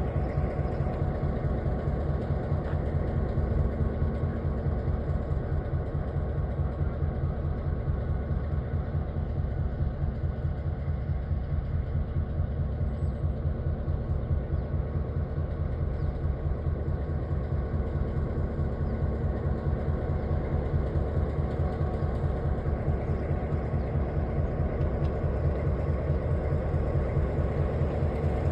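Mountain train's engine running steadily: a low drone with a fast, even pulse.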